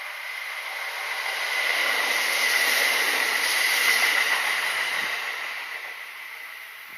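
Kintetsu Nagoya Line electric train passing by. Its running noise swells to a peak about three seconds in and fades away, over a steady high whine.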